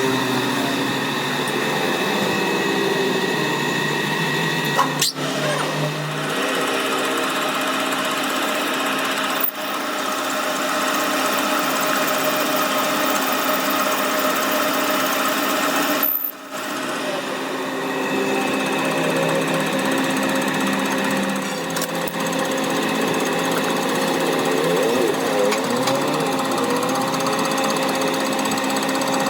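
Machine tool running and cutting metal, a steady mechanical chatter that breaks off abruptly a few times.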